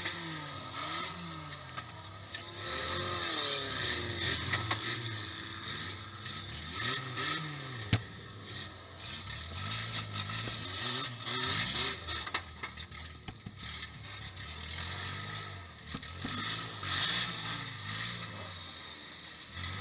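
Demolition derby car's engine running, heard from inside the stripped cabin, revving up and down repeatedly, with loose metal rattling and scraping. A single sharp knock comes about eight seconds in.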